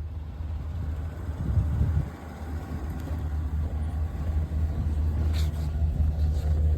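Engine running steadily with a low rumble, likely a vehicle or snow-clearing machine.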